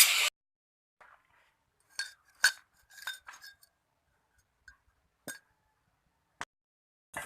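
A loud rasping cutting noise stops suddenly at the very start, then a handful of separate light metal clinks and taps follow over several seconds, as pieces of metal pipe are handled.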